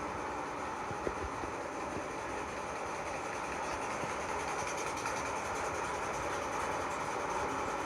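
Steady din of a ship's engine-room machinery, with a single sharp knock about a second in.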